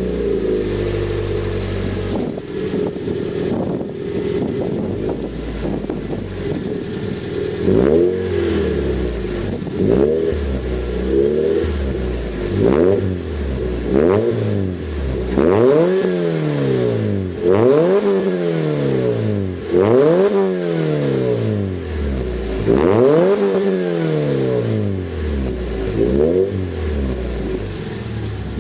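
Suzuki Swift Sport 1.6 four-cylinder engine breathing through a 4-2-1 header and hand-made stainless steel muffler. It idles steadily just after starting, then is blipped again and again, the revs climbing and dropping back to idle about every two seconds.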